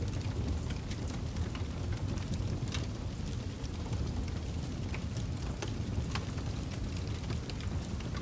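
Campfire burning: a steady low rumble of the flames with irregular sharp crackles and pops from the burning wood, several each second.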